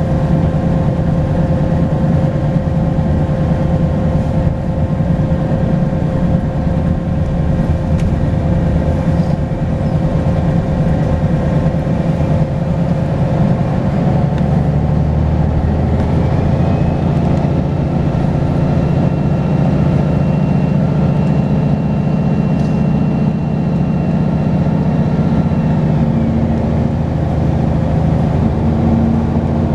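Volvo B10BLE single-deck bus engine running under way, with a turbo whistle over the engine note. About halfway through, a higher whine rises in, holds for about ten seconds and then falls away.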